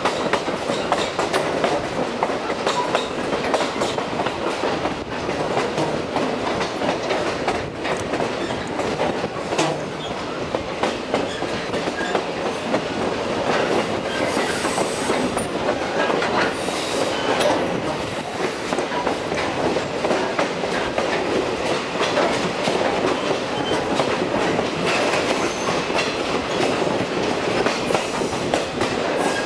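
Railroad cars rolling along the track, the wheels clacking steadily over the rail joints, with brief high wheel squeals around the middle.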